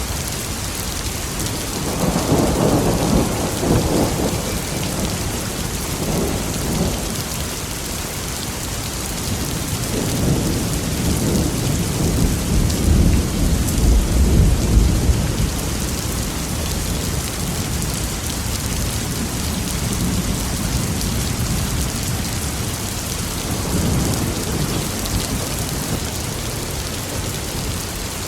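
Steady heavy rain with thunder rolling in several times: a rumble about two seconds in, a smaller one around six seconds, a longer, deeper roll from about ten to fifteen seconds, and a fainter one near the end.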